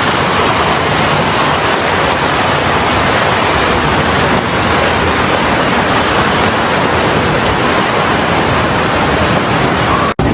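Loud, steady rushing of water, with no single events standing out, cutting off abruptly near the end.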